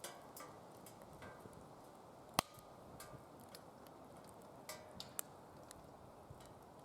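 Firewood burning in a DOD Mecha-Moe Fire secondary-combustion fire pit, crackling with scattered small pops over a soft steady hiss. One sharp pop about two and a half seconds in is the loudest.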